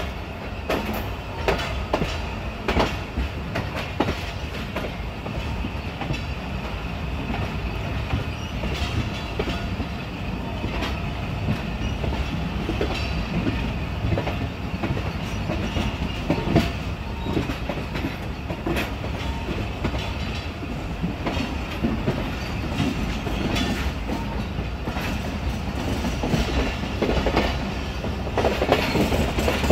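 Green Line Express passenger coach running along the track, heard from aboard: a steady rumble with the wheels clacking irregularly over rail joints, the clacks coming thicker near the end.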